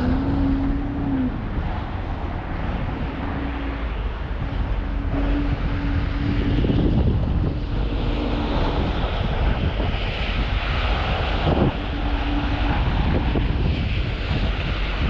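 Alpina XB7 driving on snowy streets: its twin-turbo V8 running with a steady drone and a faint engine tone that comes and goes, under constant road and wind noise.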